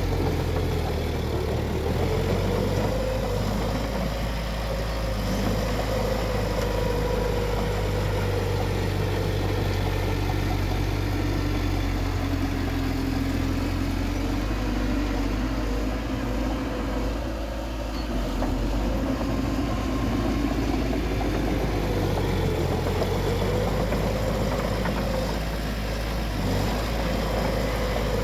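Bulldozer's heavy diesel engine running steadily, its pitch drifting slowly up and down as it works.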